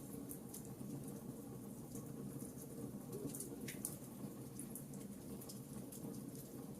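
Wood fire burning in a fireplace: irregular small crackles and pops over a steady low rumble, with one brief rising whistle about halfway through.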